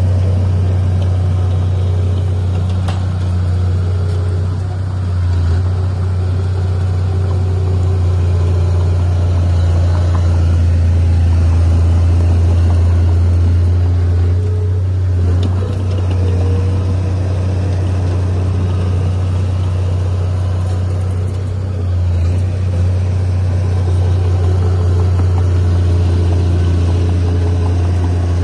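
Heavy earthmoving machine's diesel engine running steadily with a deep, low drone, easing off slightly a few times.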